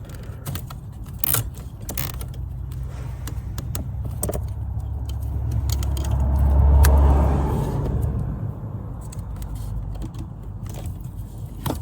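Low rumble of a passing road vehicle, swelling to a peak about seven seconds in and then fading. Scattered clicks and light rattles come from zip ties and wiring being handled.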